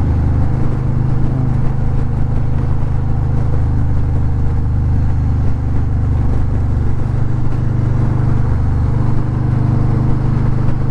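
Harley-Davidson touring motorcycle's V-twin engine running steadily at cruising speed, with wind rushing past.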